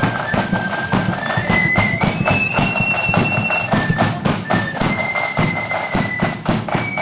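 Marching band playing: a high wind-instrument melody of held notes stepping up and down, over rapid, dense drumming.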